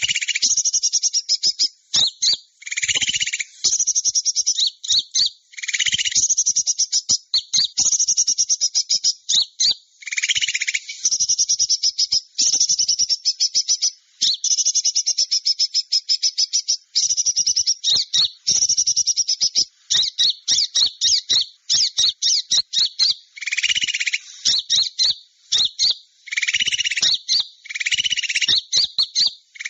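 Small-bird luring call (suara pikat): rapid, high-pitched chirping trills with almost no pause, and lower calls breaking in every few seconds.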